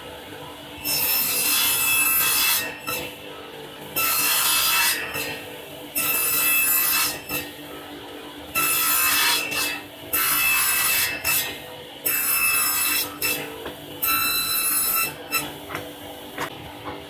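Hand-tool work on wood: long rasping strokes, about ten of them, each lasting about a second with short pauses between.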